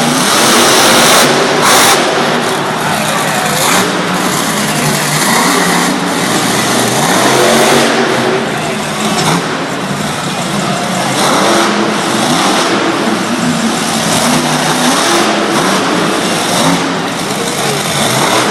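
Monster truck's supercharged V8 engine running hard and revving, loud and continuous, its pitch rising and falling repeatedly.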